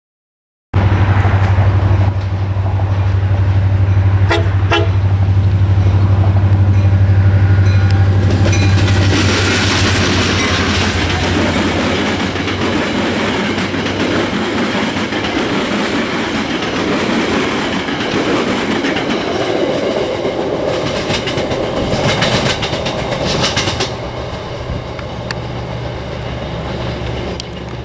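Metra MP36PH-3C diesel-electric locomotive with its 16-cylinder EMD prime mover running hard as a commuter train of bilevel cars passes close by. There is a steady engine hum through the first half, then the rumble and rattle of the cars' wheels on the rails, with wheels clicking over rail joints a little past the middle, easing off near the end.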